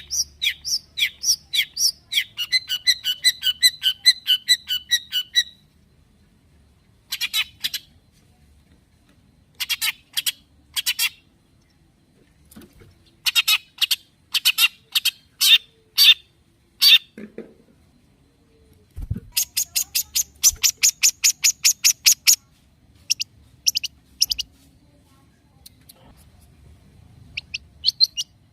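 Long-tailed shrike (cendet) singing in excited bursts: rapid runs of sharp, high, repeated calls, about three or four a second, broken by pauses of a second or two.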